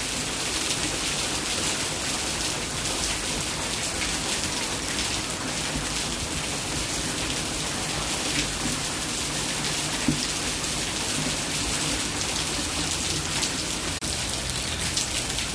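Heavy rain falling, a steady hiss with many scattered drop taps and one sharper tap about ten seconds in.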